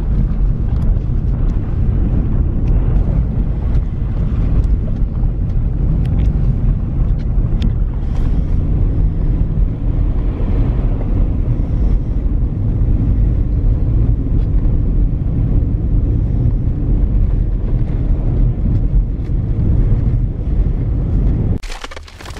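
Steady, loud low rumble of wind buffeting the microphone mixed with a vehicle's road noise while driving, cutting off suddenly near the end.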